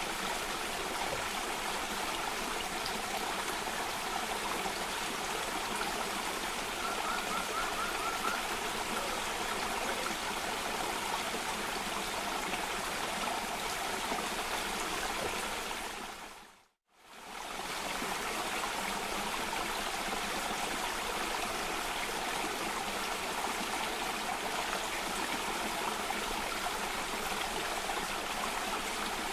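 Steady rushing of a stream or small waterfall. The water fades out to silence and straight back in about two-thirds of the way through, like a loop seam. A faint short run of high notes sounds about seven seconds in.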